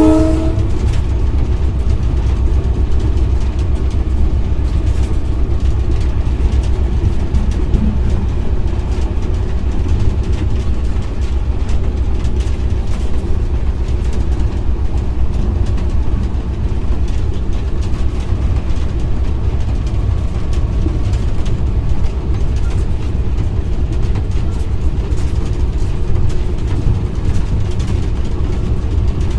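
GMU-30 diesel-electric locomotive running at speed, heard from the cab: a steady, loud low rumble of engine and wheels on rail with a constant fine clatter. The horn cuts off just at the start.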